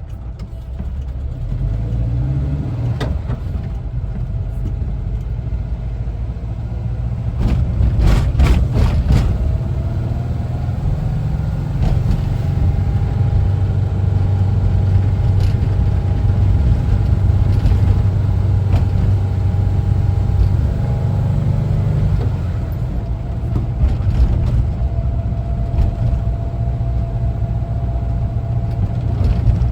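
Air-cooled flat-four engine of a 1974 Volkswagen Westfalia camper bus running under way. There is a brief clatter about eight seconds in, then a steady drone for about ten seconds before the engine note drops.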